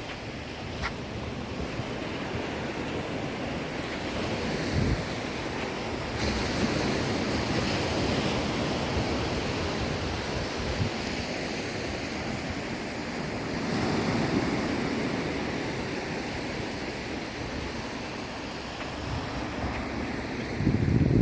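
Sea waves breaking and washing on the shore in slow swells, with wind buffeting the microphone in a few low thumps.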